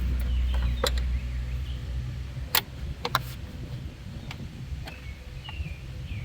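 A few sharp clicks and knocks from the air filter box and its cover being worked back into place, over a low rumble that fades about halfway through.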